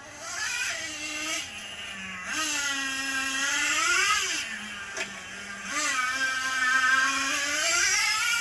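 Motor of a radio-controlled toy truck whining, its pitch rising and falling in about three surges as the throttle is worked, with a sharp click about five seconds in.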